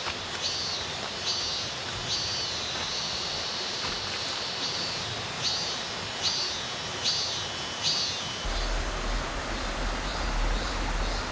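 Steady rush of a mountain valley stream, with a high call repeated about once a second that fades out after about eight seconds. A low rumble joins in over the last few seconds.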